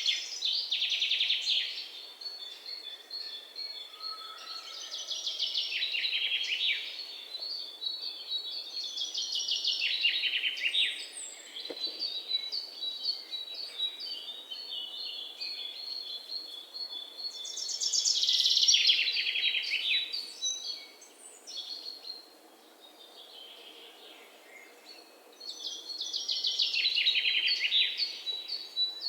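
Songbirds singing: fast trilled phrases of about two seconds that fall in pitch, repeated every few seconds. A thin, high, steady note runs between them through the middle stretch.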